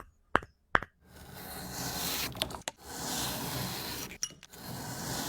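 Three quick, sharp knocks in the first second, then a steady rushing hiss with a few clicks about halfway through.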